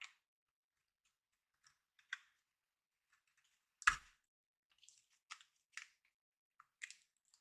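Light plastic clicks and taps of a RAM stick being handled and pressed into a motherboard's memory slot, with one sharper click about four seconds in.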